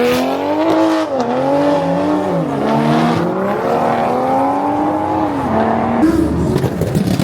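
A car's engine revved up and held at high revs, its pitch wavering up and down for several seconds, then dropping off about five and a half seconds in.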